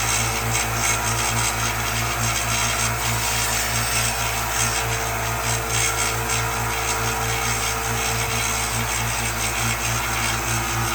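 Handheld power tool running steadily against wood, a constant motor hum under a rough grinding noise that rises and falls unevenly as it is worked.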